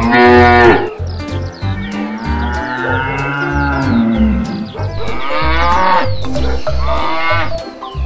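Cattle mooing: several long moos, the loudest in the first second, over background music with a repeating bass beat.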